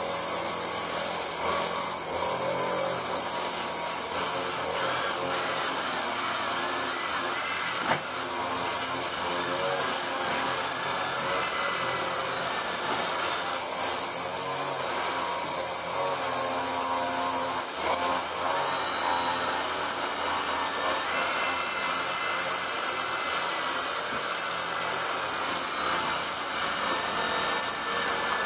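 A small electric power tool running continuously, its pitch wavering now and then as the work loads it.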